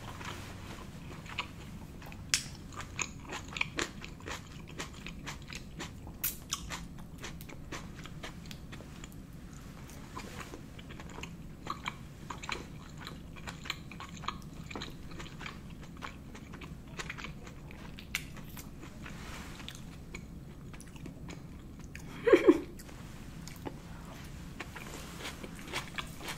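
Close-miked eating sounds: chewing with many small wet clicks and smacks as cherry tomato and spaghetti carbonara are eaten. A brief low hum, the loudest sound, comes near the end.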